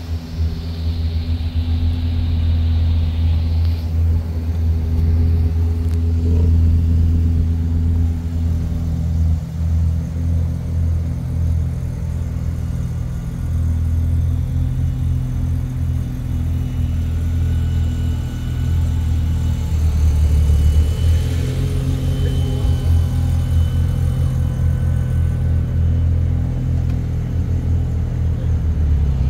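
2012 Lexus LFA's 4.8-litre V10 engine running at a steady idle, a deep, even note with no revving.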